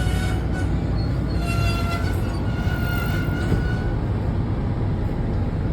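Washington Metro railcar running on the track, with a steady low rumble and a high steady whine for a couple of seconds in the middle, as the train comes into a station.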